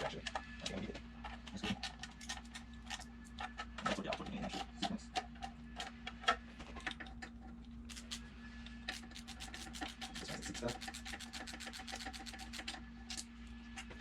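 Hand ratchet clicking as nuts are run down onto exhaust header studs, with scattered knocks of tools and parts. From about nine seconds in the clicks come fast and even, several a second. A steady low hum runs underneath.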